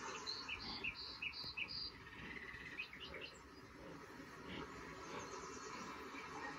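Faint bird chirping: a quick run of four chirps about half a second in, then a longer whistled note and a few scattered chirps.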